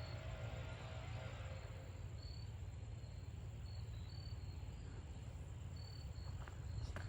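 Insects, likely crickets, chirping in short, scattered high-pitched bursts over a low steady rumble. A couple of soft footsteps on the trail come in near the end.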